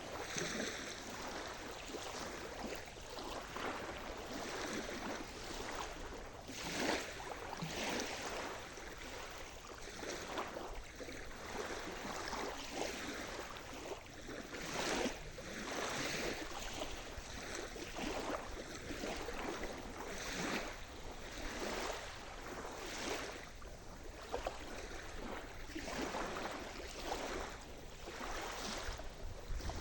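Sea surf: small waves washing and splashing, a steady rush of water with a fresh splash every second or two.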